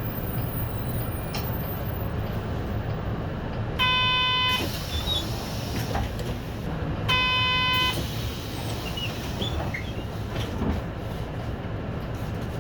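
City bus engine idling at a stop, with two long electronic beeps about three seconds apart, each a single flat tone.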